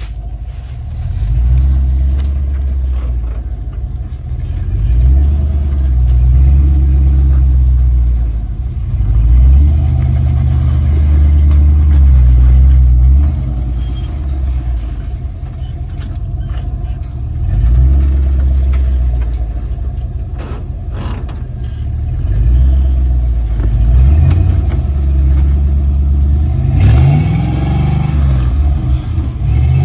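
Off-road truck engine running under load on a trail, the revs swelling and easing every few seconds, then climbing near the end.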